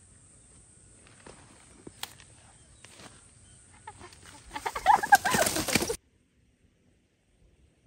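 Chickens squawking loudly with wings flapping, in a burst of about a second and a half that cuts off suddenly, after some faint scattered sounds.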